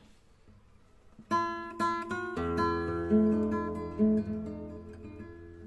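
Acoustic guitar playing: near quiet at first, then a few single plucked notes about a second in, followed by chords ringing out over a low bass note that slowly fades.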